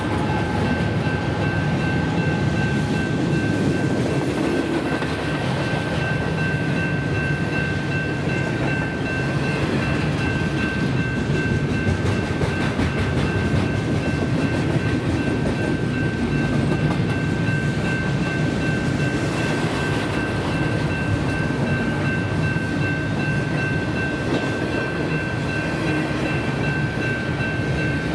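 Double-stack intermodal freight train rolling past at speed: a steady low rumble and clatter of loaded well-car wheels on the rails. The last of the GE diesel locomotives goes by in the first few seconds. A steady high ringing from the grade-crossing bell runs over it.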